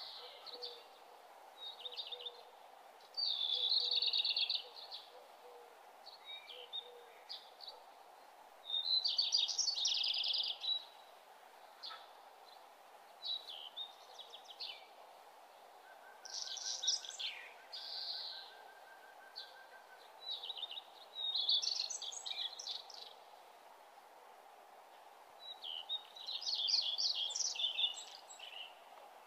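Bird chirping: bursts of rapid high chirps lasting a second or two, repeated every few seconds, over a faint steady background noise.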